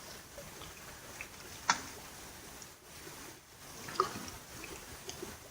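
Quiet background with faint small sounds and two short, sharp ticks, one about a second and a half in and one about four seconds in.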